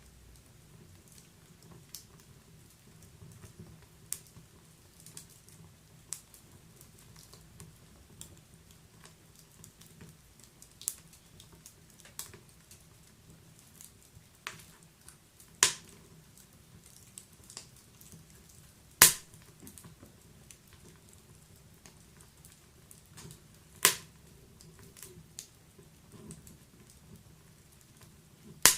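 Wood fire crackling in a fireplace: a stream of small irregular crackles with a few loud sharp pops, the loudest about two-thirds of the way in.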